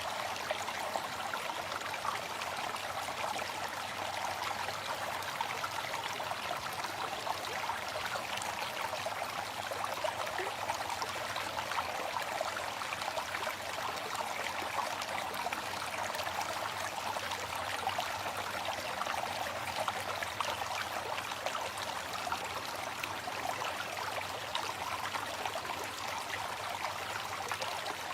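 Waterfall: falling water splashing in a steady, even rush without change.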